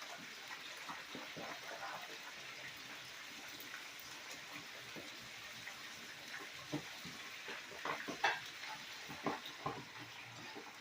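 Chicken pieces frying in a pot of hot grease: a steady sizzle with scattered crackles, and a few louder pops of the grease in the second half.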